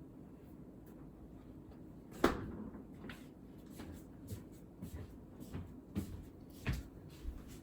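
Scattered light knocks and clicks of things being handled, with one sharper knock a little over two seconds in and a few smaller ones near the end, over a faint low room hum.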